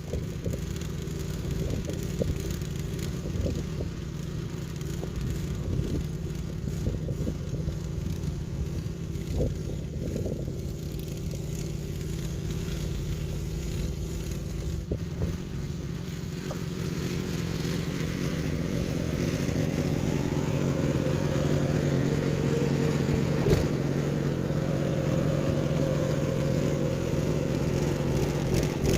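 An engine running steadily, growing louder a little over halfway through.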